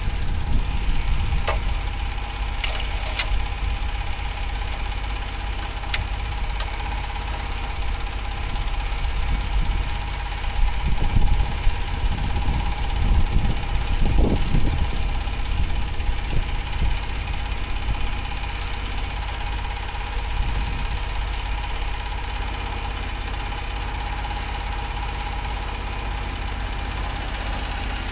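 An engine running steadily, with a constant whine over its rumble and a few faint clicks in the first seconds.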